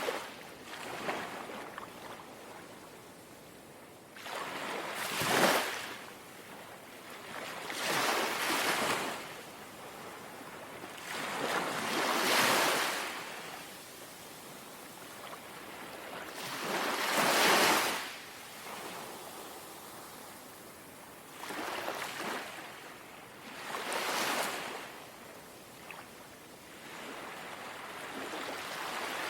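Small, gentle sea waves lapping onto the shore, each wash swelling to a hiss and falling away again, every three to five seconds.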